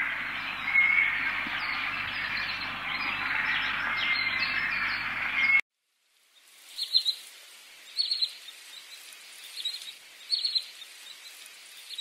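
Dense chorus of many wild birds singing at once, cutting off abruptly about halfway through. After a moment's silence comes a quieter recording with four small clusters of short, high chirps.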